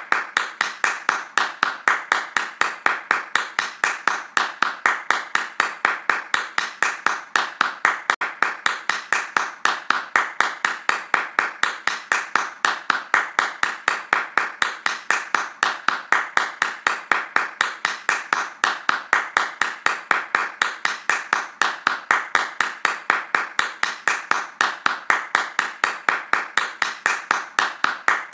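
Hands clapping fast in a steady, even rhythm, about four claps a second.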